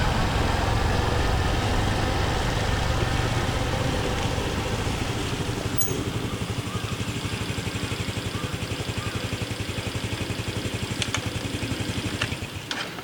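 Honda Cross Cub 110's single-cylinder engine running, easing off about four seconds in to a steady idle with a fast, even beat. A few sharp clicks come near the end, and then the engine sound drops away.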